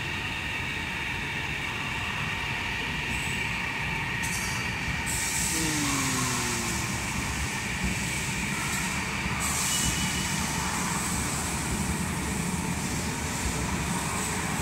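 Fuxing high-speed train running along a station platform: the steady rumble of the cars passing, with a steady high tone over it.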